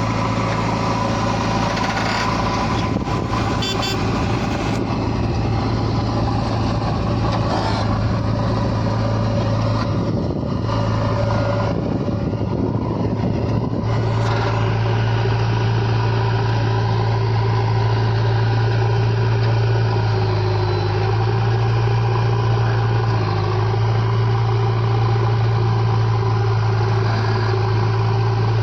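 Heavy diesel engine of a JCB or tractor running with a steady hum, which wavers for a few seconds about a third of the way in before settling back.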